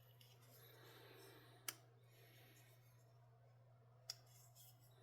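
Near silence broken by two short, faint clicks about two and a half seconds apart, from a Petrified Fish Nightingale folding knife being worked as its freshly reassembled action and lockup are checked.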